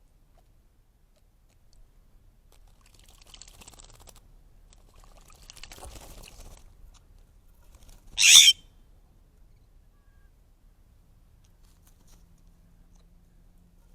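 A scrub jay giving one short, harsh call about eight seconds in, the loudest sound here, with a few fainter noisy rustles before it.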